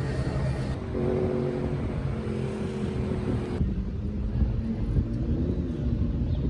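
A road vehicle's engine running: a low rumble with a steady hum that shifts in pitch a little past the middle as the revs change.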